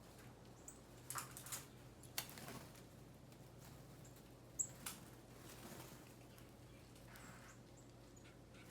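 Small birds feeding: faint scattered rustles and flutters with a few short, high peeps, over a low steady hum.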